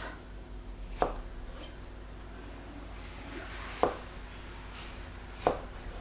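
A knife cutting through boiled sweet potato and knocking on a cutting board three times, at slow, uneven intervals.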